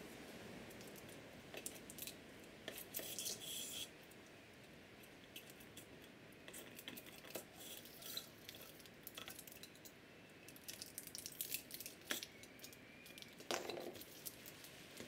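Faint handling of 3018 CNC router kit parts: light clicks and clinks as aluminium extrusions, a bag of small fasteners and plastic parts are moved about on a wooden bench, with a short crinkle of a plastic bag around three seconds in.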